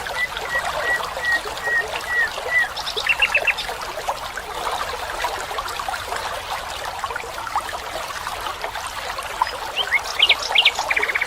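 A stream trickling and running steadily, with songbirds calling over it: a string of about ten short, even whistled notes at first, a quick rattling trill a few seconds in, and more sharp notes leading into a fast trill near the end.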